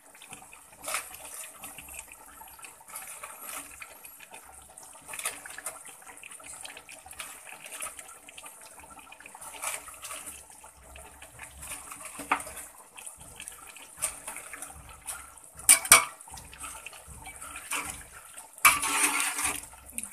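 Chicken pieces, chopped tomatoes and yogurt sizzling in hot oil in a large cooking pot: a steady hissing sizzle with scattered crackles, and a few louder bursts near the end.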